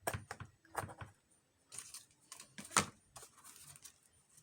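Scissors cutting paper: several short, sharp snips, the loudest near three seconds in.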